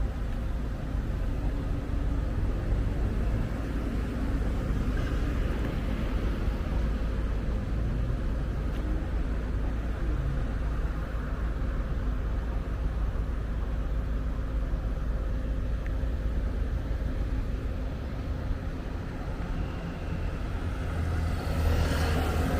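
City road traffic: a steady low rumble of cars going by. Near the end a louder vehicle passes close.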